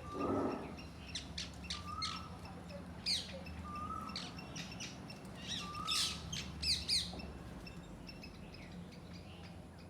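Parakeets calling with sharp, quick chirps and squawks in two flurries, one about a second in and a louder one around six seconds in. A softer short note from another bird repeats about every two seconds underneath, and a brief rustling noise opens the stretch.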